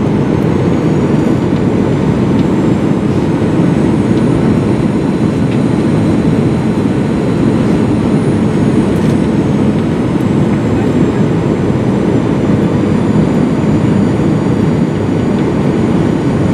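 Steady cabin roar inside a Boeing 737-900ER in flight: a deep, even rush of airflow and engine noise that does not change.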